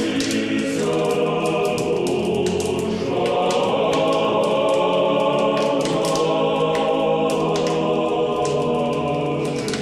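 Closing music of a choir singing slow, sustained chords, with irregular crackling clicks over it.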